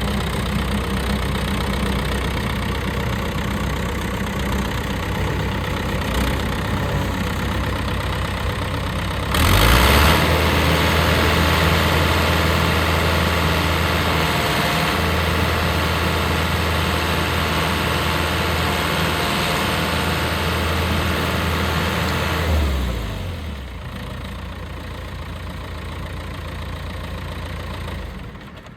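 Versatile 276 bi-directional tractor's diesel engine idling, throttled up about nine seconds in to a faster, louder run, then brought back down to a quieter idle some thirteen seconds later.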